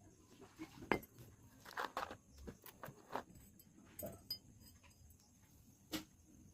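Faint, scattered clicks, taps and light knocks of small hard objects being handled, at irregular intervals; the sharpest comes about a second in, with another near the end.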